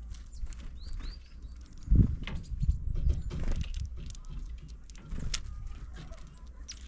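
Tufted titmice at a window feeder: irregular pecking taps and scrabbling on the feeder, with a heavier thump about two seconds in and a few short high chirps about a second in.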